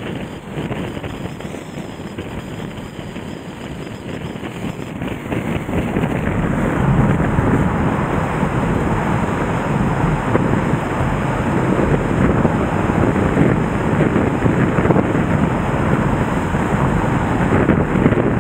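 Floodwater of the Nagara River, swollen by a typhoon, rushing in a loud, steady wash of noise, with wind buffeting the microphone. It grows louder about six seconds in.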